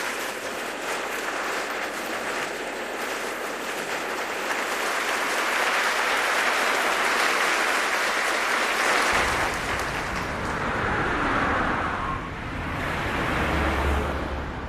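Audience applauding, a dense steady clapping. About nine seconds in a low rumble joins underneath.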